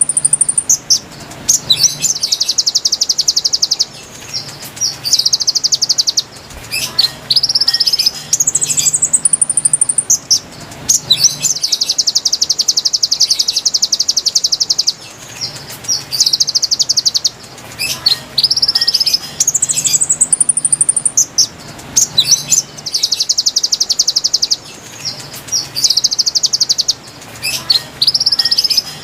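Recorded song of the konin bird, played as a lure for wild konin. High, rapid trills lasting a couple of seconds alternate with short rising chirps, the same phrase pattern coming round again every several seconds, over a faint low hum.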